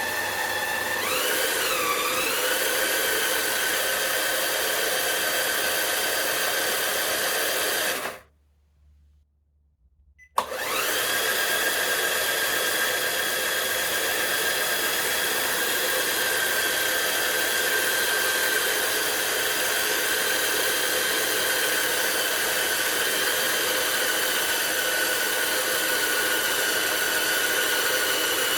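CaDA M geared DC motor running on a test bench with a steady high whine; its pitch wobbles a second or so in. It stops about 8 seconds in, starts again two seconds later with a click and a quick rise in pitch, then runs steadily, dipping slightly in pitch a couple of times as the torque load is changed.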